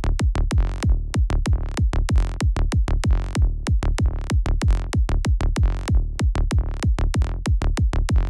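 Electronic kick and bass loop playing back: a synthesized kick drum under a rapid, pulsing synth bass whose bright filter sweeps open and close again and again. Playback cuts off abruptly at the very end.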